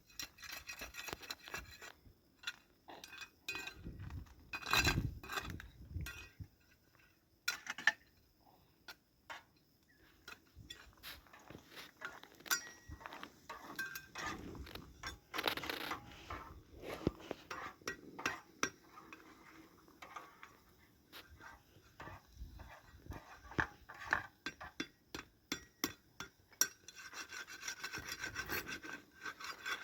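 Hands-on food preparation: irregular clicks and knocks with stretches of rubbing or scraping.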